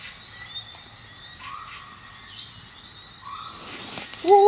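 Outdoor animal calls: short rising calls repeating about every second and a half, with faint high bird chirps. Near the end a loud wavering, voice-like pitched sound starts.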